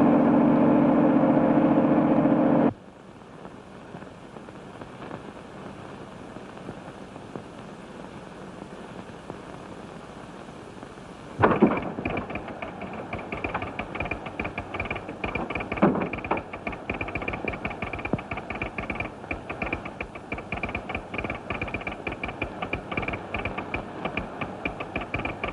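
A loud held pitched tone for about three seconds, then low hiss. About eleven seconds in comes a heavy thump, and a steam train runs with fast rhythmic clatter, with a second thump a few seconds later.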